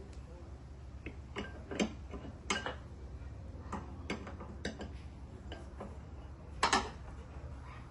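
Irregular sharp clicks and knocks of hand tools and parts being handled while a riding-mower deck spindle is worked on. About a dozen come at uneven intervals, with a louder double knock near the end, over a steady low hum.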